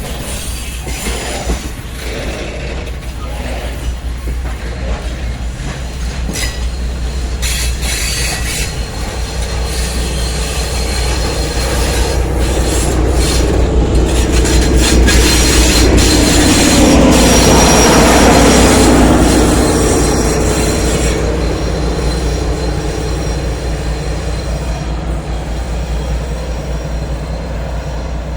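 PKP Cargo freight train rolling past on a siding, with wheels squealing and clicking over the rails. The rumble swells to its loudest a little past the middle, then fades.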